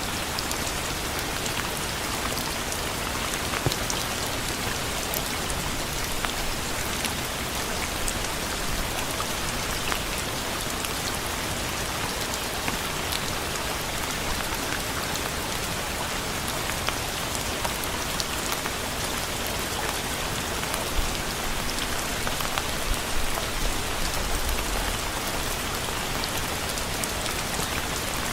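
Steady rain falling on a surface, an even hiss dotted with the sharp ticks of single drops landing.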